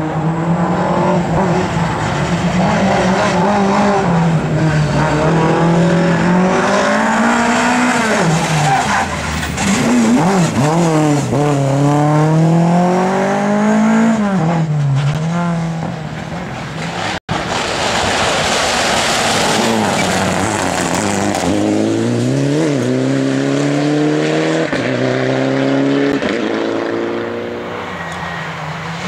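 Rally car engines revving hard, their pitch climbing and dropping again and again as the drivers accelerate, shift and lift off. About 17 seconds in the sound cuts abruptly to another car doing the same.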